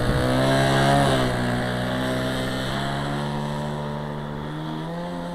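Model airplane engine opening up to full throttle for the takeoff run: its pitch rises over the first second, then it holds a steady high-revving drone that slowly fades as the plane pulls away.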